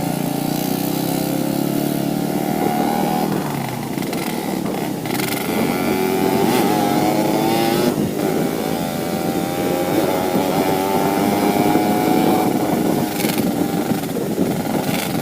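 Yamaha RX-King 135's two-stroke single-cylinder engine running on the move, its pitch rising and falling as the throttle changes.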